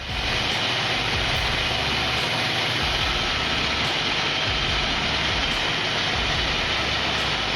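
A large engine running steadily, with an even mechanical noise throughout.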